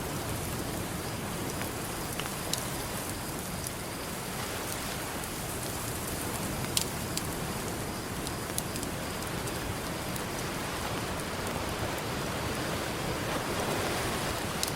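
Campfire crackling, with scattered sharp pops, the loudest about seven seconds in, over a steady wash of ocean waves.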